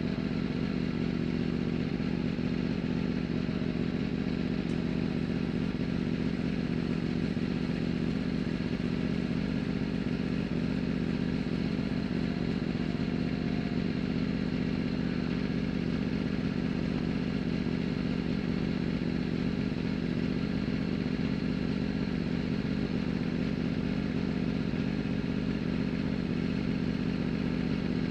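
Superbike engine idling steadily at an even, unchanging pitch, close to the bike-mounted camera.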